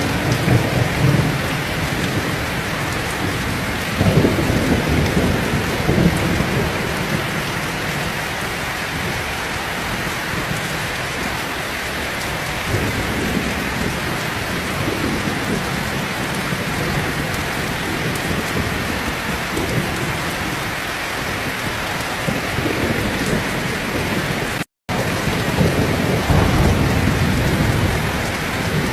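Heavy rain falling steadily, with low rolls of thunder swelling and fading several times, strongest near the start and near the end. The sound cuts out completely for a split second a little before the end.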